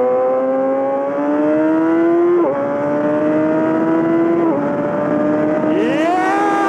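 Yamaha R6 inline-four sport bike with a full M4 exhaust accelerating under moderate throttle: the engine note climbs steadily, drops sharply at an upshift about two and a half seconds in and again at another about two seconds later, then holds fairly steady. Near the end a second engine tone swells and fades over it.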